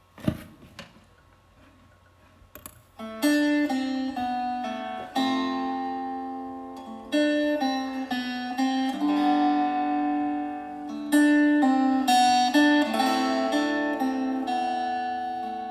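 Acoustic guitar playing the intro of a song: plucked chords that ring out and change every second or so, beginning about three seconds in after a few sharp clicks.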